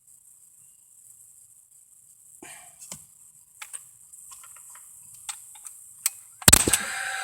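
Crickets chirring steadily in a high band, with a few small clicks and knocks of handling. Near the end a Paslode gas-powered framing nailer fires once with a sharp bang, and its fan starts a steady whir to clear the exhaust gas.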